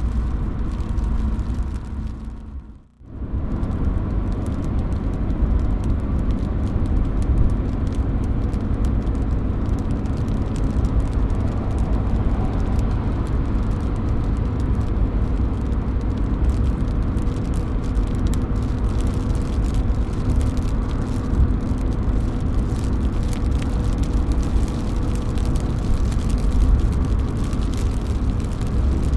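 Steady rain with water dripping and splashing off a roof edge: a continuous, rumbling hiss with scattered fine patters. About three seconds in it dips almost to nothing for a moment, then returns at the same level.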